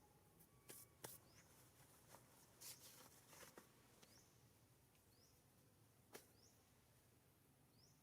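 Faint outdoor ambience: a short, high rising chirp repeats about every second and a half, with a few sharp clicks or snaps, mostly in the first half and once more near six seconds.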